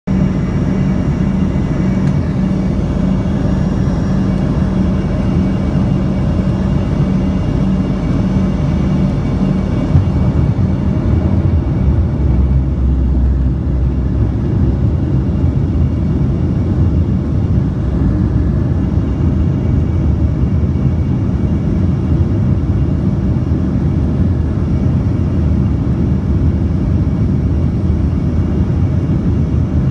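Aircraft on approach to land: a steady, loud rumble of engines and rushing air, with a steady hum that fades out about ten seconds in and a short click at about the same moment.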